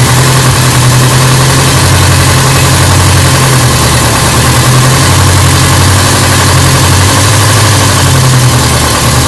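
1949 Ariel Square Four's four-cylinder engine idling steadily on its first start after a rebuild. Its idle speed wavers slightly a few times.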